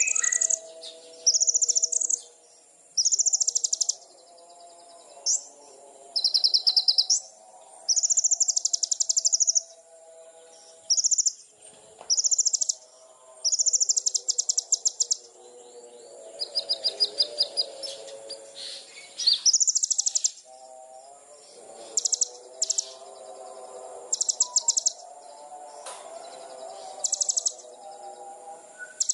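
A songbird singing a series of short, high-pitched, rapid trills, each about a second long with brief pauses between, over a quieter background of lower chirping.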